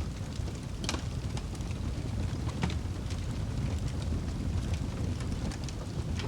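Fireplace crackling: a steady low rumble of burning wood with scattered sharp crackles and pops, the most prominent about a second in and again midway.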